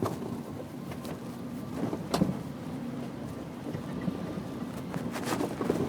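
Inside an old car while driving: steady engine and road rumble, with a sharp knock about two seconds in.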